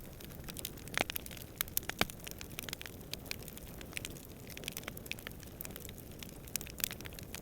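Campfire crackling: irregular sharp pops and snaps, the loudest about one and two seconds in, over a steady low rush of distant wind.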